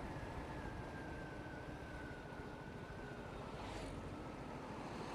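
Motorcycle riding along a road: a steady low engine and road rumble, with a thin high whine that slowly drops in pitch, and a short hiss near the end.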